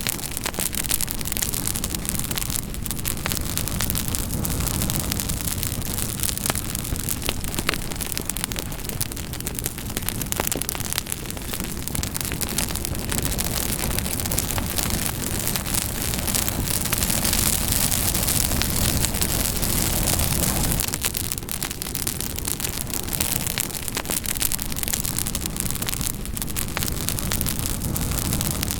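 Campfire burning with constant crackling and sharp pops of wood over a steady hiss and low rumble of flame.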